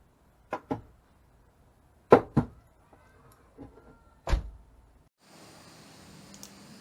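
A series of sharp clunks, the first two in quick pairs and the loudest a single one a little past the middle. A steady hiss of background noise sets in near the end.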